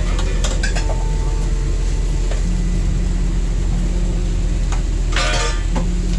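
Pots, pans and utensils clinking and clattering over a steady low hum, with a louder rattle about five seconds in.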